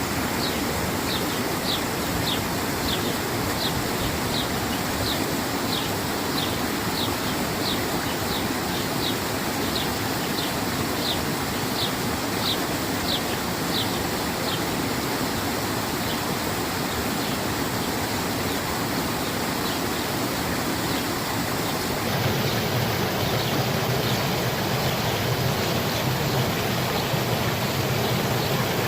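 Spring water running and splashing steadily, with a bird repeating a short, high, falling note about twice a second through the first half. About two-thirds of the way in, the water abruptly becomes fuller and deeper.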